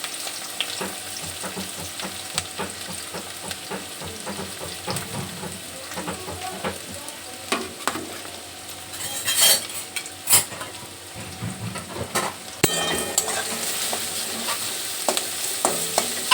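Onions frying in hot oil in a pan, sizzling steadily while a spatula stirs them, with scattered clinks and scrapes against the pan, a few louder ones about nine to ten seconds in. After a sharp knock late on, the sizzle grows louder.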